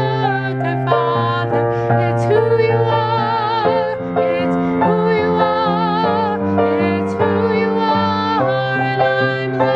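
Church music: a hymn or solo sung with vibrato over sustained keyboard chords that change about once a second.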